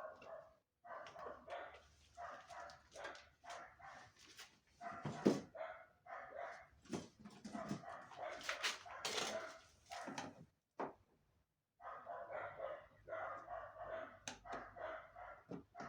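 Small dog barking and yapping in quick, almost continuous runs, with a louder sudden knock about five seconds in and a short pause past the middle.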